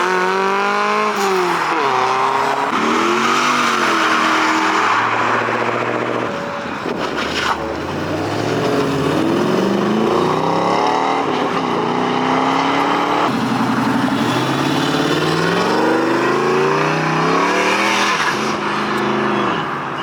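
Car engines revving hard, their pitch climbing and dropping over and over. A sharp bang comes about seven and a half seconds in.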